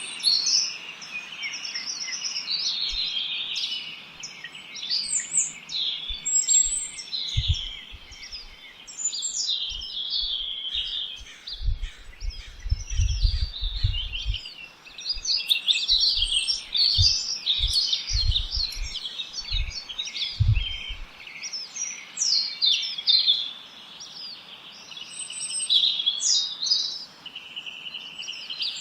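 A dense chorus of songbirds, many short chirps and song phrases overlapping throughout. Irregular low rumbles come and go through the middle stretch.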